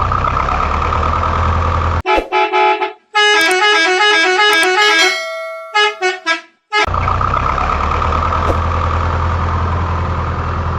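Steady vehicle-type running noise with a low rumble. About two seconds in it breaks off for a few seconds of stepping electronic jingle tones, then resumes.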